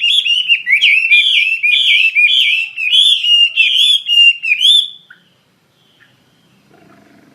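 Chinese hwamei singing a loud, rapid run of repeated whistled notes that glide up and down, stopping about five seconds in.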